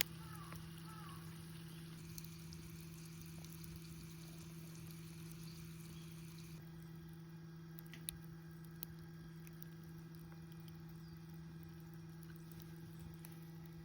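Faint steady low hum under a quiet outdoor background, with a few short chirps in the first second and scattered soft clicks, two of them a little past the middle.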